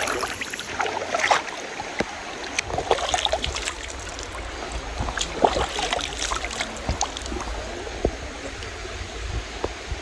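Stream water trickling and splashing over rocks, with many small scattered splashes and a low rumble underneath.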